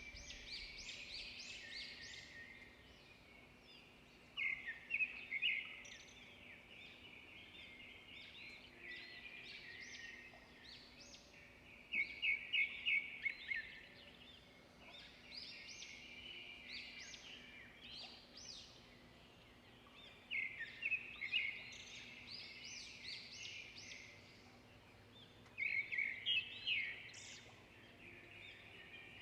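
Songbirds singing and chirping without a break, with louder bursts of quick repeated notes every several seconds.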